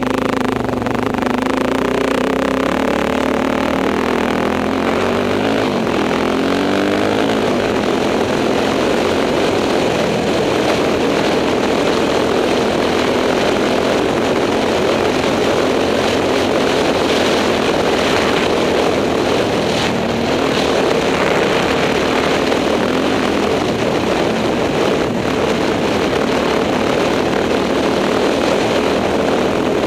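Enduro motorcycle engine running under load while riding, revs rising and falling over the first several seconds, then holding a steady drone.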